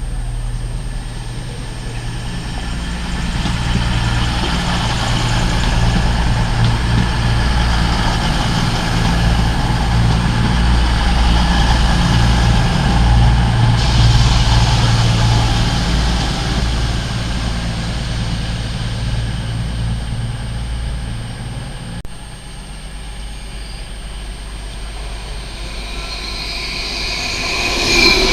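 A passenger train at a station platform gives a steady low drone that swells and then stops about three-quarters of the way through. Near the end, rising rail and wheel noise builds as another train approaches.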